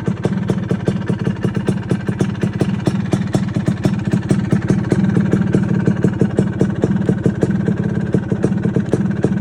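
Vespa VNB's single-cylinder two-stroke engine, bored out with a Malossi 230 MHR kit and breathing through a Posch Performance Nessi expansion exhaust, running steadily with an even, rapid pulse; it gets a little louder about halfway through.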